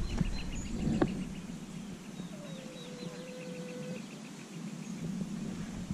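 Small birds calling: a fast, even run of high chirps with a few high falling notes, and one lower held whistle-like tone about two and a half seconds in that lasts under two seconds. A single sharp click comes about a second in.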